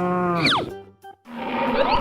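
End of a cartoon cow's long moo, closing about half a second in with a quick falling whistle-like glide. A brief silence follows, then upbeat cartoon background music starts.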